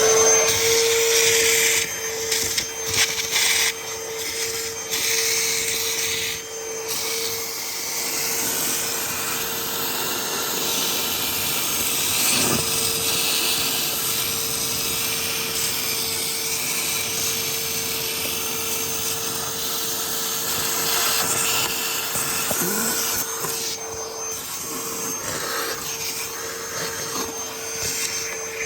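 A vacuum motor switches on and runs steadily with a constant hum and hiss, the way a wet/dry shop vac sounds while sucking water and sludge out of a clogged air-handler drain pan.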